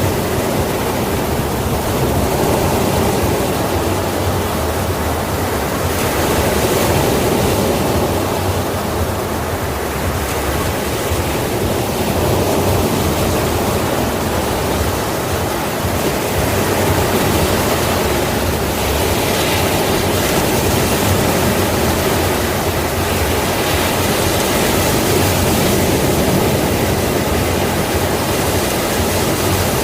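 Sea waves: a continuous rushing wash of surf that swells slightly every several seconds, with no distinct single breakers.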